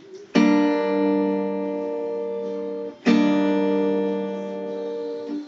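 Acoustic guitar strumming two chords, one about half a second in and another about three seconds in, each left to ring out and fade.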